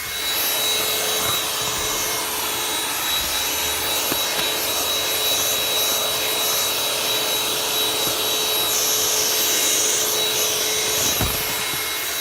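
Cordless vacuum cleaner running steadily while vacuuming a car's back seat: a constant motor whine over a rushing hiss of suction.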